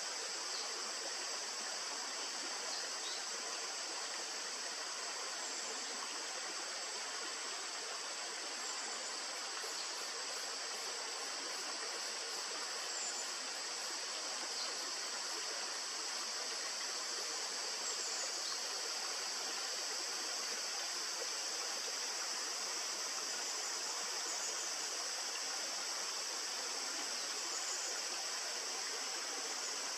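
Steady rushing of a stream, with a constant high-pitched insect drone over it and a few faint short chirps.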